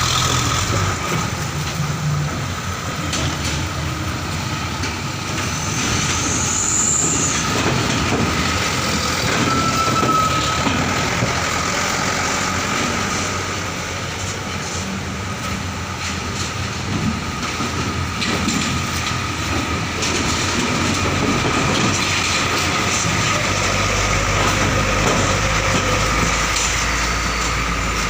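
Heavy trucks rolling off a ferry over its steel ramp: a continuous rattling clatter with engines running, a brief squeal about seven seconds in, and a deeper engine rumble coming in near the end.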